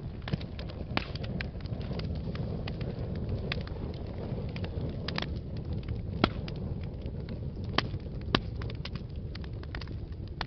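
Wood fire burning in a fireplace: a steady low rumble of the flames with irregular sharp crackles and pops, the loudest pops about six seconds in and twice more a couple of seconds later.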